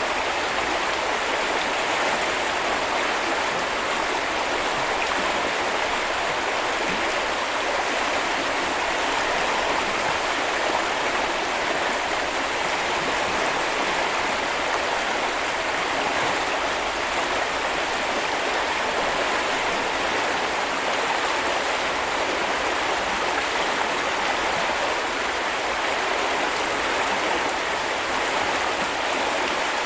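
A small river or brook flowing over stones: a steady, even rushing and babbling of water.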